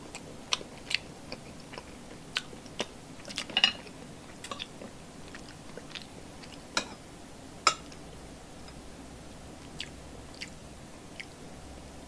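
Close-up mouth sounds of eating stewed milkfish belly fat and rice: quiet chewing with scattered sharp wet clicks and smacks, the loudest a little before four seconds in and again near eight seconds.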